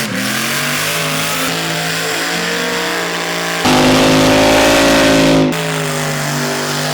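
Supercharged LS V8 of an R34 Skyline burnout car held at high, steady revs. It jumps louder and higher for about two seconds in the middle, then drops back.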